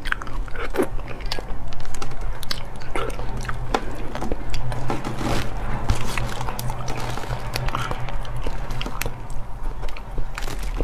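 Close-up chewing and wet mouth sounds of eating soft jackfruit flesh, with the fibrous fruit being pulled apart by hand: many short clicks and squelches over a steady low hum.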